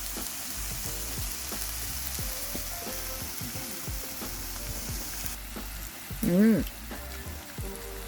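Food sizzling steadily on a hot grill, with faint background music underneath. About six and a half seconds in, a short voiced sound rising and falling in pitch, the loudest moment.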